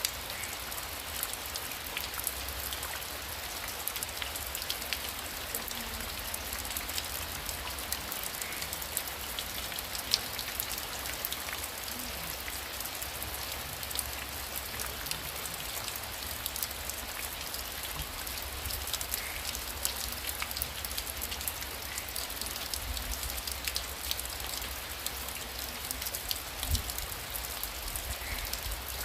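Heavy rain falling steadily: a continuous hiss dense with the ticks of individual drops striking a surface.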